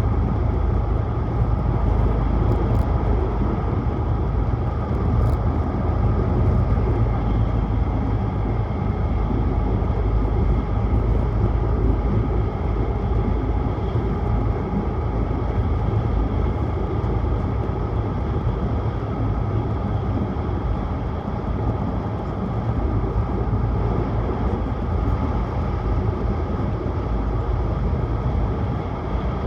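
Steady running noise of a Tohoku Shinkansen train at speed, heard inside the passenger car: a deep, even rumble with a hiss above it.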